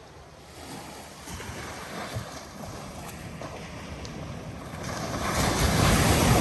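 Ocean waves washing in, swelling to a loud surge near the end.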